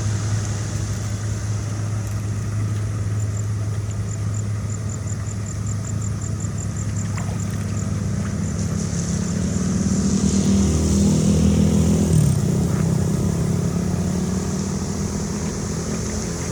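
An engine running steadily; about halfway through it climbs in pitch and grows louder over a few seconds, then drops suddenly, all under a steady rushing noise.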